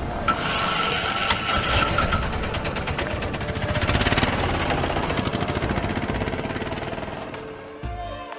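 Motorcycle engine running with a rapid pulsing exhaust beat, swelling to its loudest about halfway through and easing off near the end.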